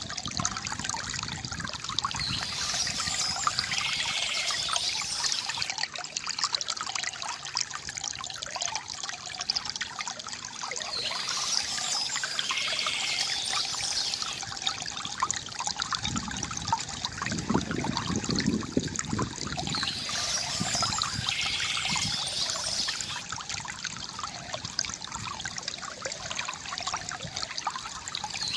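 Water trickling and splashing steadily from a bamboo fountain, with a deeper gurgling surge a little past the middle.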